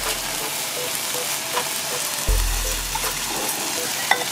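Vegetables and shrimp sizzling in a hot wok while being stirred: a steady frying hiss. A low rumble comes on briefly about two seconds in, and there is a single click near the end.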